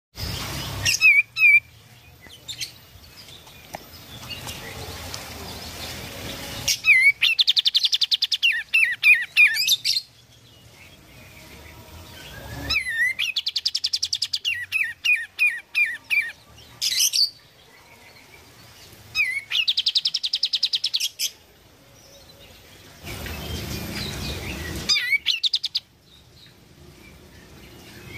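Kapas tembak songbird in full song: about five phrases of fast trilled notes and sweeping whistles, with pauses of a few seconds between them.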